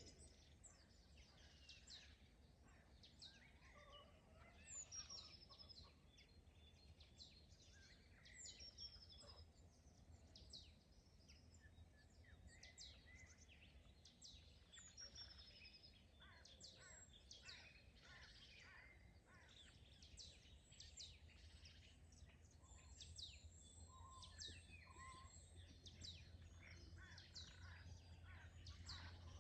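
Faint chorus of several songbirds singing and chirping at once, many short, quick high calls and trills overlapping throughout, over a low steady rumble that grows a little toward the end.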